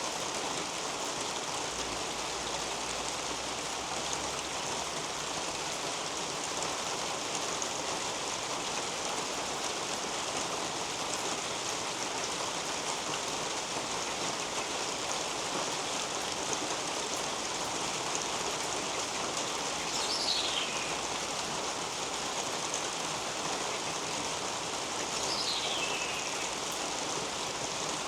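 Steady rain falling on leaves, soil and a roof overhead, an even hiss. About twenty seconds in, and again about five seconds later, a bird gives a short high call that falls in pitch.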